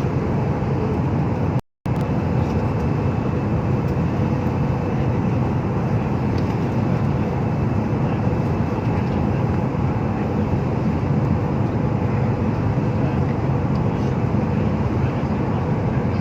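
Steady drone and rush of an airliner's jet engines and airflow heard inside the passenger cabin, cutting out for a moment a little under two seconds in.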